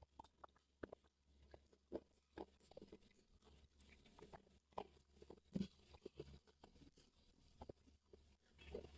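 Close-up chewing of crispy deep-fried chicken lollipop: a string of faint, irregular crunches and mouth clicks, the loudest a little past halfway.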